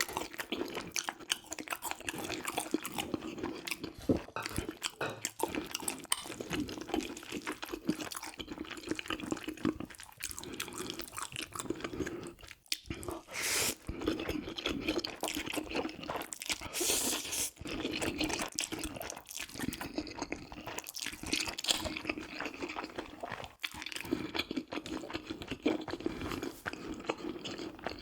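A person chewing food close to the microphone: continuous wet smacking and crunchy chewing, with two short louder hissing noises about halfway through.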